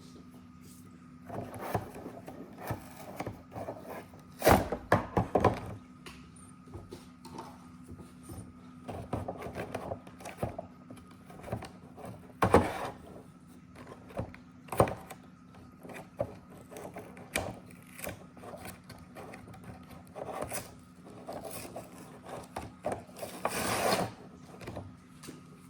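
Toy packaging being handled and pried at: scattered rubbing and rustling broken by sharp clicks and knocks, with a longer stretch of rustling near the end.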